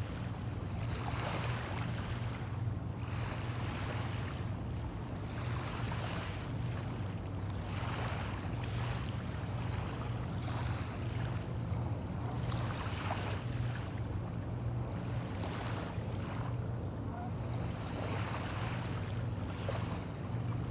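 Small waves washing onto a bay shore, a hissing surge every second or two, over a steady low hum.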